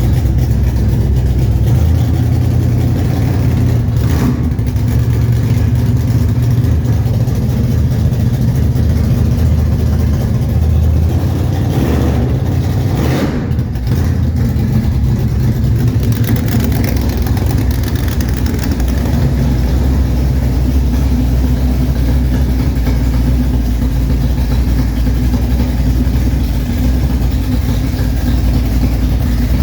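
Chevrolet 454 big-block V8, bored .030 over, running at a loud, steady idle, with a quick rev up and back down about twelve to fourteen seconds in.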